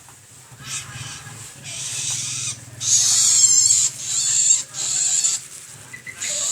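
Long-tailed shrike (cendet) giving a run of harsh, rasping calls, about six bursts of half a second to a second each, the loudest a few seconds in. A steady low hum runs underneath.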